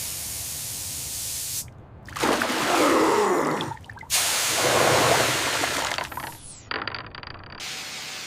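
Hissing rush of water and spray, in several blocks that start and stop abruptly; the loudest two each last about two seconds, in the middle.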